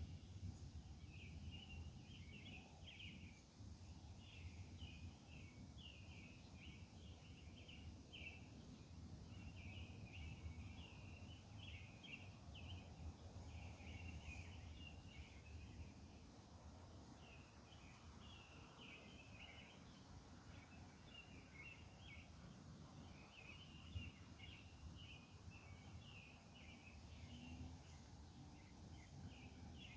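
Faint chorus of many small animals chirping on and off in high-pitched pulses, over a low steady rumble.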